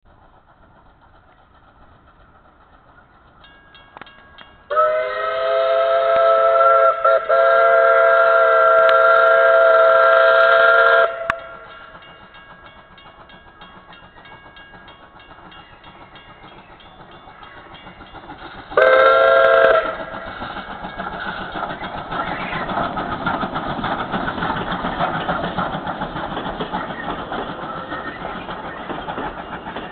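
Steam locomotive whistle sounding a long blast of about six seconds, a chord of several tones with a brief dip partway, then a short second blast about 19 seconds in. After that the train runs by with a rising rumble and rattle of wheels.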